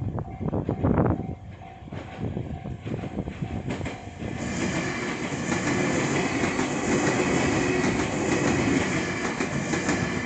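Meitetsu 3000-series electric train passing over a level crossing. It grows loud about four seconds in and goes by close, wheels clattering over the rail joints, while the crossing's warning bell keeps ringing.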